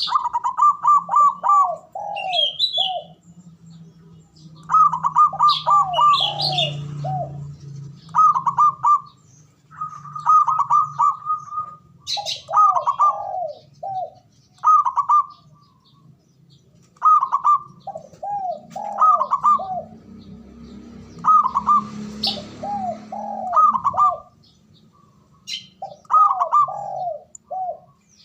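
Zebra dove (perkutut) singing its cooing song: phrase after phrase of quick arching notes that step down to a few lower, slower notes, repeated with short pauses. Brief high chirps sound between the phrases.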